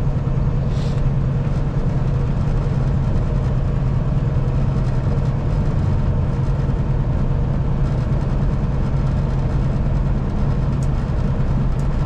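Semi-truck's engine running with road noise: a steady low drone under an even rushing noise.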